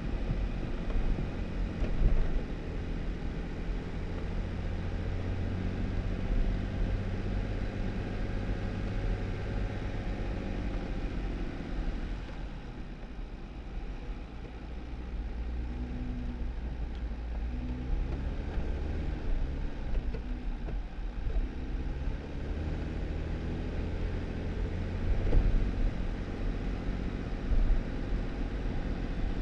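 2018 Jeep Wrangler driving on a snowy dirt road: engine running under tyre noise, the revs easing off about halfway through and then picking up again, with a few louder bumps.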